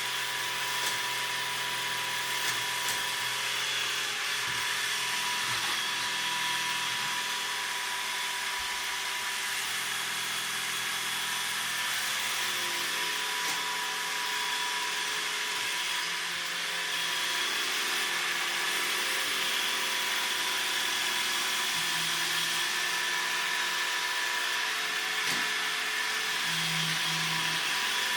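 Robot vacuum cleaner running steadily: a continuous motor whir with a thin high whine, getting a little louder a little past halfway, with a few faint ticks.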